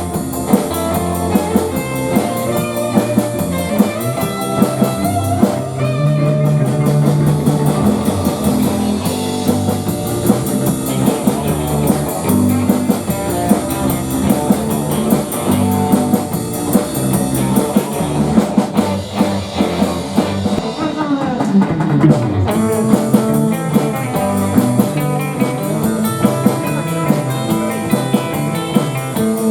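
A live rock band in the 1960s electric-guitar instrumental style: electric guitars playing over bass and a drum kit with a steady beat.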